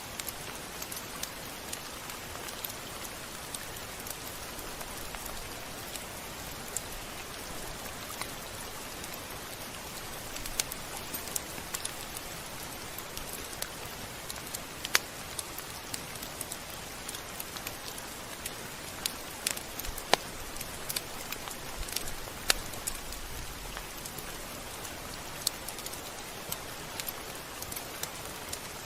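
Steady rain falling on a surface: an even hiss with many scattered sharp drop ticks, a few of them louder.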